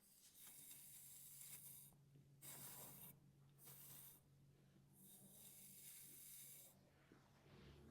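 Hairbrush bristles drawn through hair in four slow strokes, each a soft hiss of a different length, the first and last the longest.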